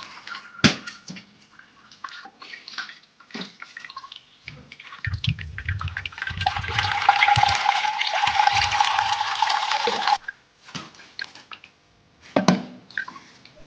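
Water running steadily into a container for about four seconds and then cut off sharply, with a steady tone from the filling vessel. Small knocks and clatter of handled objects come before and after it.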